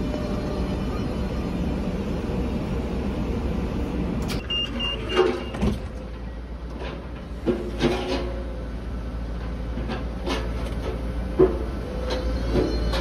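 Renfe Class 447 electric multiple unit standing at a platform, its equipment running with a steady low rumble. About four seconds in, the door signal gives three short, high beeps, followed by a scattering of sharp knocks and clunks from the doors.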